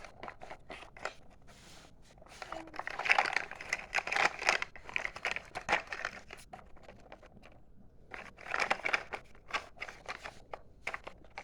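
Crinkling, rustling handling noise with many quick clicks and taps, in two busy spells.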